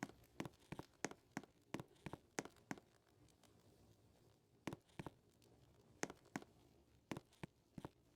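Footsteps: sharp crackling clicks about three a second, stopping for a moment about three seconds in and then resuming in short runs.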